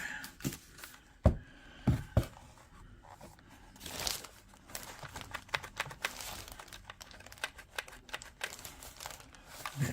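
Plastic packaging crinkling and rustling as vacuum cleaner parts are unwrapped and handled, with a few sharp knocks of hard plastic parts being set down, the loudest about a second in.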